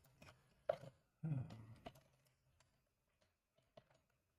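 A sharp click, then a brief murmur of a man's voice, followed by a few faint ticks and clicks.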